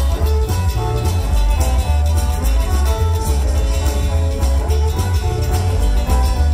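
Live rockabilly band playing an instrumental stretch with electric guitar over a strong, pulsing bass line, no vocals.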